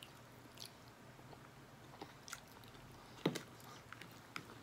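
Chewing of saucy lo mein noodles: soft, wet mouth sounds with scattered small clicks, and one sharper click a little after three seconds in.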